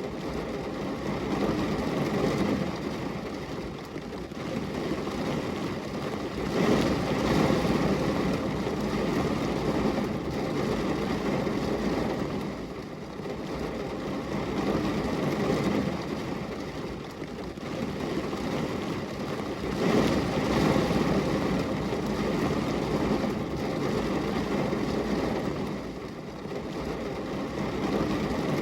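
Steady rain noise, a continuous rushing hiss that swells and eases every few seconds.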